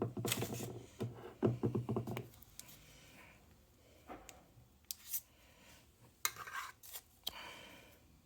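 Scissors cutting through a hard plastic blister pack, a string of creaking cuts for about two seconds, followed by scattered clicks and short scrapes of the plastic being handled.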